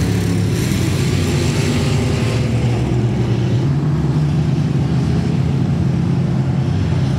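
Race car engine running at a steady speed, a loud, even drone.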